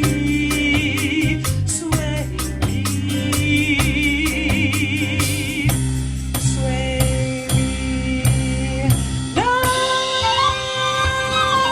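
Big band playing an instrumental swing passage: held horn lines with vibrato over a regular drum beat, then the band moves onto long sustained chords about nine seconds in.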